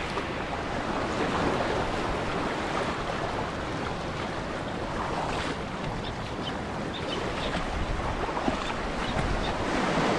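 Steady rushing of wind on the microphone over moving sea water.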